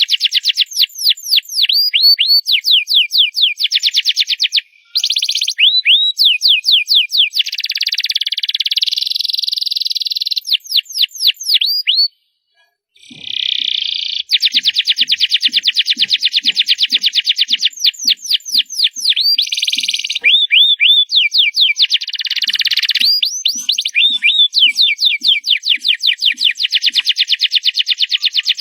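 Canary singing loudly: long runs of rapid repeated sweeping notes and buzzy trills, with a short break about five seconds in and a longer one about twelve seconds in.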